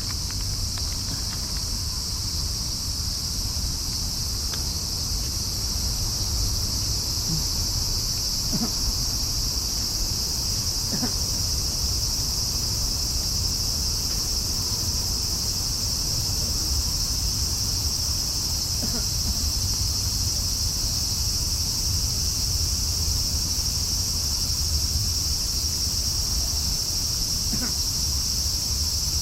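Crickets chirping in a steady, unbroken high-pitched chorus over a low, steady rumble.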